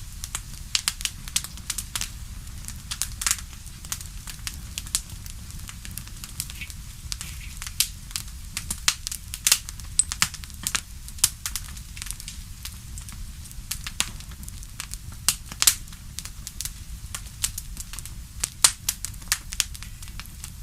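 Wood fire in a fireplace crackling, with frequent sharp pops at irregular intervals over a steady low rumble of the flames.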